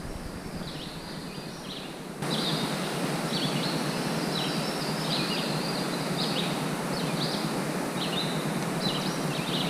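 Steady outdoor background hiss, stepping up in level about two seconds in, with a small bird chirping over it in many short, high notes.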